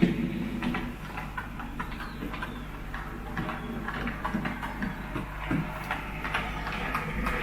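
N gauge model trains running on the layout: irregular light clicks of wheels over rail joints and pointwork over a steady low hum.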